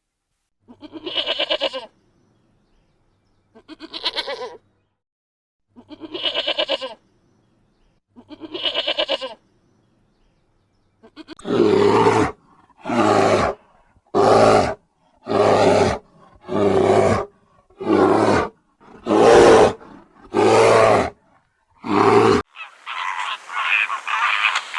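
Animal calls. First four drawn-out, throaty calls about two and a half seconds apart, then about nine louder, shorter calls in a steady rhythm, a little over one a second.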